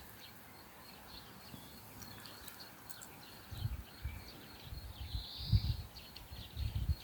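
Pasture ambience: small birds chirping and insects ticking, with one clearer bird call about five and a half seconds in. A few low thumps come in the second half.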